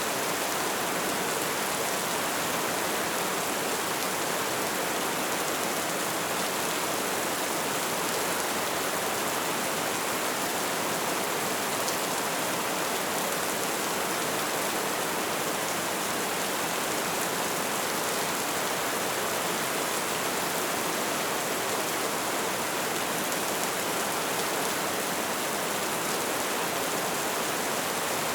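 Light rain falling as a steady, even hiss, with no separate drops or thunder standing out.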